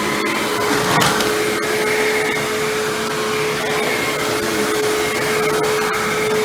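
Hoover WindTunnel self-propelled bagless upright vacuum running steadily on shag carpet, its motor whine holding one pitch, with a brief knock about a second in.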